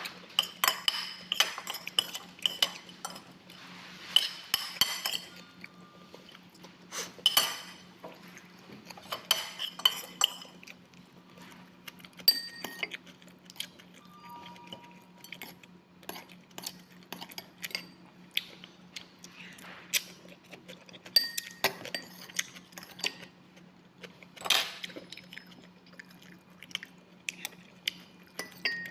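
Cutlery clinking and tapping against a dish at irregular moments as someone eats, with a steady low hum underneath.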